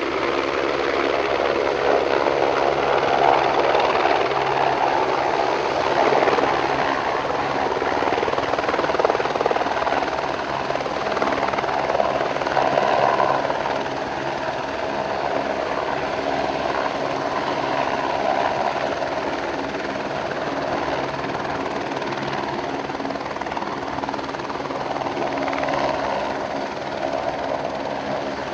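Helicopter running steadily, its rotor and turbine heard as a continuous loud sound with steady low tones, easing slightly in the second half.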